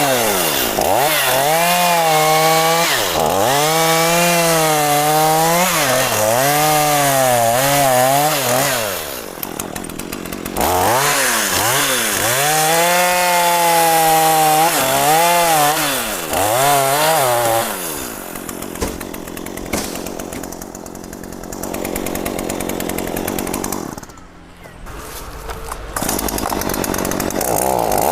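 Two-stroke chainsaw cutting mahogany at high revs, its engine pitch sagging and recovering again and again as the chain loads up in the wood. About a third of the way in, and again from a little past halfway, the saw falls back to a lower, rougher running note, with one brief drop in level near the end.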